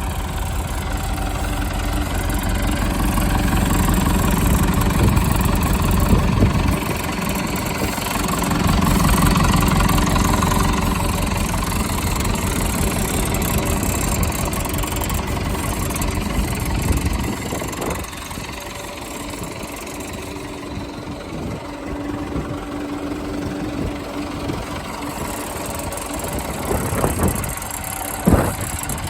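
Massey Ferguson 165 Multipower tractor engine running, louder through the first ten seconds or so, then settling to a quieter idle. A couple of sharp knocks come near the end.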